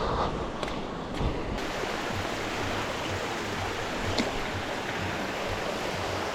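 Steady rushing of a river's flowing water, preceded by a few footsteps in the first second or so.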